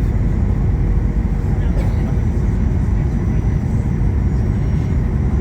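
Airliner cabin noise: a steady low rumble of jet engines and airflow, unchanging throughout.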